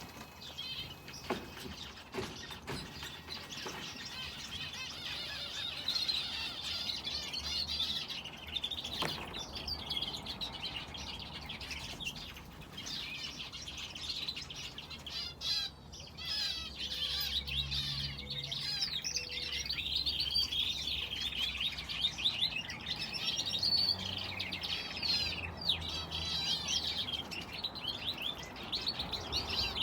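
Aviary finches and a canary chirping and singing without pause, many quick high calls overlapping, with a few brief knocks in the first ten seconds.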